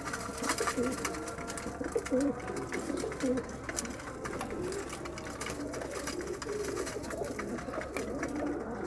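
Domestic pigeons cooing, several birds overlapping in repeated low calls, with scattered short clicks and rustles among them.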